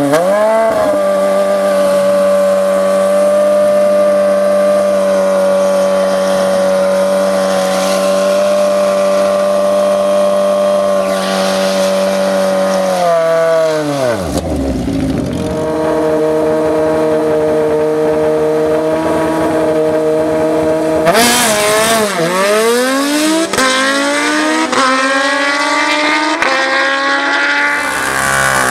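A racing engine revs up sharply and holds a high, steady pitch. About 13 s in the revs drop and settle a little lower. About 21 s in they dip again, then climb steadily.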